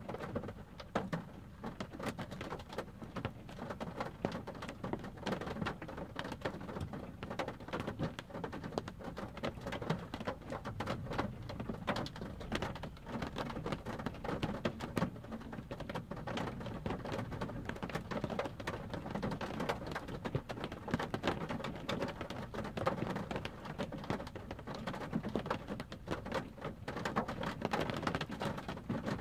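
Rain pattering on a car's windshield and roof, heard from inside the car: a dense, steady patter of drops.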